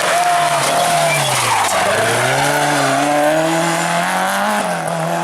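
Rally car at full competition pace. The engine's revs fall to a low point about two seconds in, then climb and hold as it powers on, with the tyres skidding and sliding underneath.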